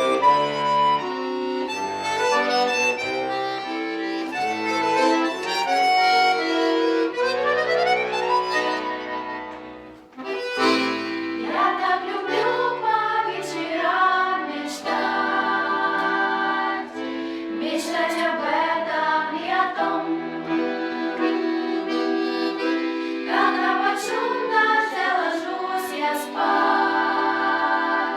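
A girls' vocal ensemble singing a pop song over instrumental accompaniment. The first ten seconds or so are an instrumental introduction with a rising glide near its end; then the voices come in.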